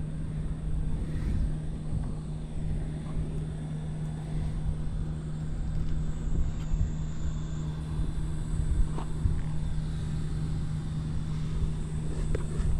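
Honda CBX750F's inline-four idling steadily on a cold start through a Yoshimura Cyclone 4-into-1 short full exhaust, with no abnormal noises.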